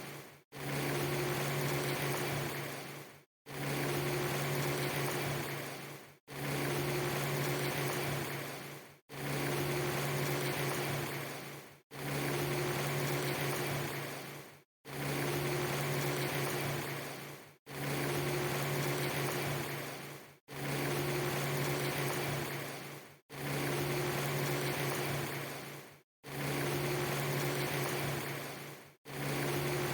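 A short ambience loop of steady hiss with a low steady hum under it, repeating about every three seconds. Each pass fades out and drops to a moment of silence before starting again, so it is far from seamless.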